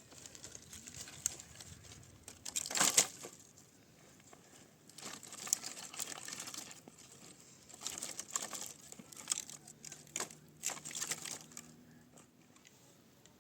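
Crinkling and rustling of material being handled, in irregular bursts with pauses between, the loudest about three seconds in.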